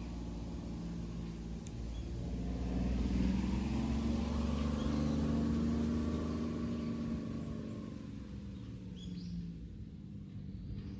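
A motor vehicle passing by: its engine noise swells over a couple of seconds, holds, then fades away well before the end.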